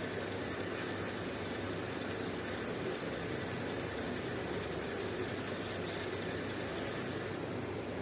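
Small electric motor of a radio-controlled model tractor running steadily with a high whine, which stops about seven seconds in.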